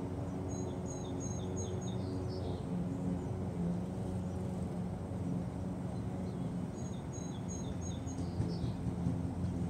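A songbird singing two short phrases of quick, repeated high chirps, one about half a second in and another about seven seconds in, over a steady low hum.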